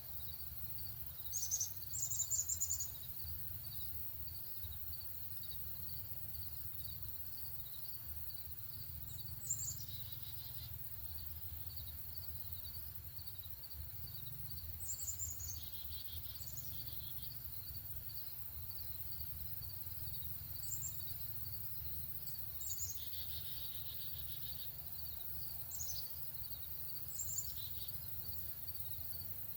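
Songbirds giving short, high, sharp calls in scattered clusters, over the steady rhythmic chirping of insects. A low, steady rumble runs underneath.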